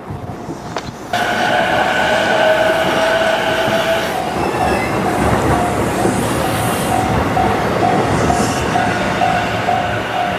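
Railroad crossing bell ringing in a steady pulsing rhythm, about two strikes a second, over the rumble of a train passing the crossing. It comes in suddenly about a second in.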